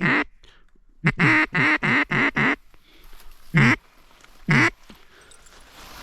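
Mallard duck call blown very close: a string of five quacks, each dropping in pitch, then two single quacks about a second apart, calling to an approaching drake mallard. Rustling begins near the end.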